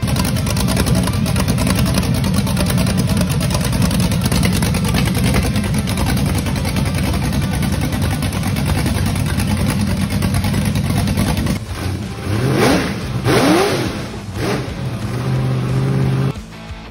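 Open-header V8 engine running loudly at fast idle. Near the end it is blipped twice, each rev rising and falling quickly, then settles to a steady idle before the sound cuts off abruptly.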